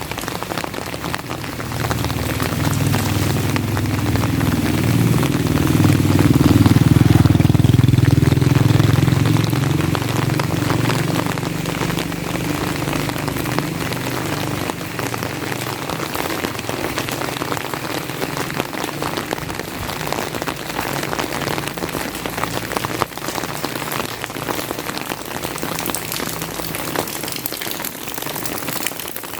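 Steady rain falling and pattering. A low rumble swells over the first few seconds, peaks, and fades away by about halfway through.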